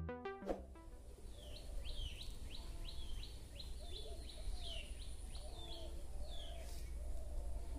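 Birds calling outdoors: a quick run of downward-sliding chirps, about three a second, for a few seconds, then scattered single calls, over a steady low rumble of outdoor background noise.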